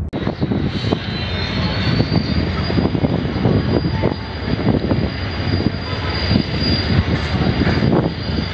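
Pakistan Railways passenger train rolling slowly past the platform, its wheels clattering over the rail joints, with a thin high squeal that rises slightly at first and then holds steady.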